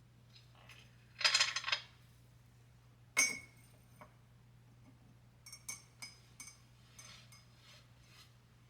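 Small hard objects clinking and rattling: a short clatter about a second in, one sharp ringing clink a couple of seconds later, then a few light taps and clicks, over a faint steady hum.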